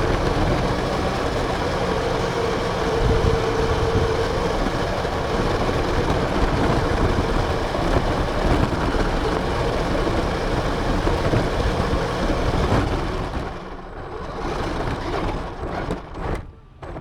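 Radio-controlled car running, heard from its onboard camera: a steady rushing rumble with a faint held whine. It dies down about three seconds before the end, flares briefly, then cuts off near the end.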